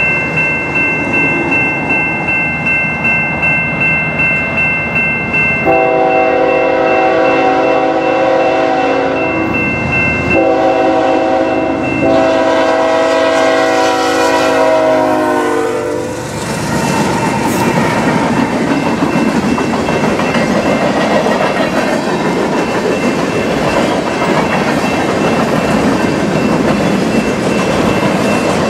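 CN freight train's lead locomotive sounding its horn in long blasts starting about six seconds in, the pitch falling as it passes close by. The locomotive rumbles past and the freight cars follow, rolling by with wheel clickety-clack. A grade crossing bell rings steadily at about two strokes a second through the first part.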